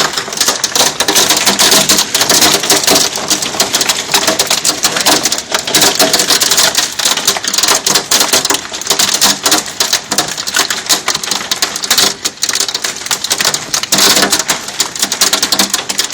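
Hailstones about an inch across pelting down in a heavy hailstorm: a loud, dense, unbroken clatter of impacts.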